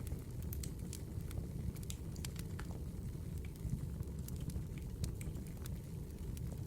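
Wood fire burning in a fireplace: a steady low rumble with frequent small, sharp crackles and pops scattered irregularly throughout.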